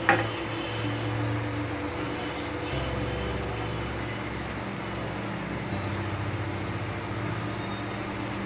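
Onion-tomato masala with ginger-cumin paste bubbling and sizzling in an oiled kadai, a steady hiss over a low steady hum, with a short knock right at the start.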